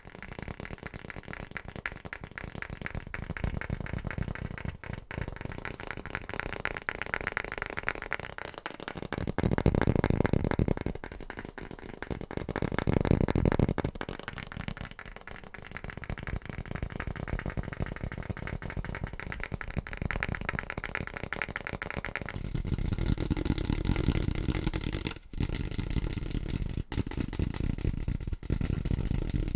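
Fast, aggressive tapping on a series of different household objects, a dense run of quick taps whose tone changes every few seconds as it switches from one object to the next.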